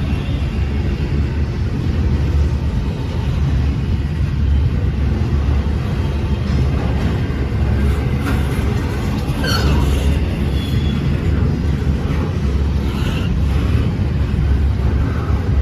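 Train running past with a steady, loud low rumble, and a brief high sound falling in pitch a little past the middle.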